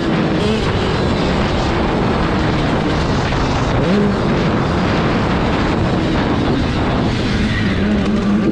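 Motocross dirt bike engines racing on the track: a dense, rough engine noise whose pitch rises and falls as the riders rev and shift.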